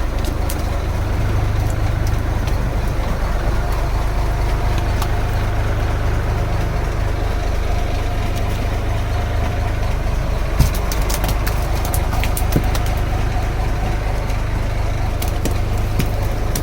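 Fishing boat's engine idling steadily, with scattered light clicks and a single knock about ten and a half seconds in.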